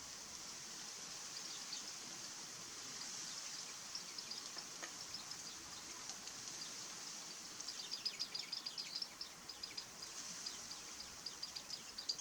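Small songbird giving rapid runs of short, high, thin chip notes, most likely a Japanese white-eye, the notes coming in clusters and thickest about two-thirds of the way through and again near the end, over a faint steady high hiss.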